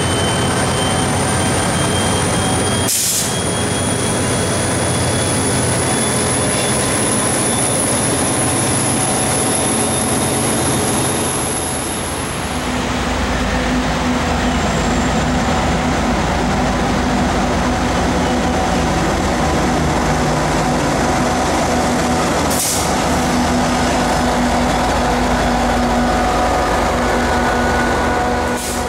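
Tri-Rail diesel commuter trains: an F40PH locomotive and bilevel coaches roll past with steady rail noise and a thin high whine that slowly rises in pitch. About twelve seconds in, after a cut, it changes to a steady low diesel drone with a hum as another train pulls in along the platform.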